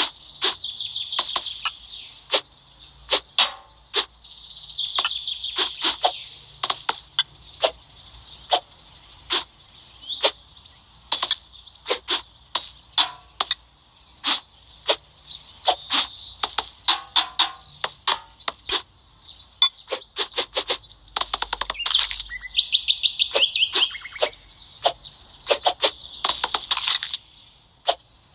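Crisp slicing and crunching: many sharp cuts or cracks at irregular spacing, with stretches of fine high crackle between them, typical of a blade cutting through brittle, crunchy material.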